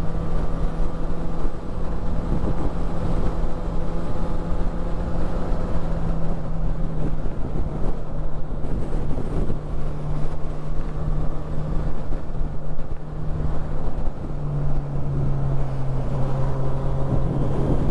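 Honda CB1000R's inline-four engine running steadily while being ridden, with wind rushing over the microphone. Its note steps down in pitch twice, about seven seconds in and again about fourteen seconds in.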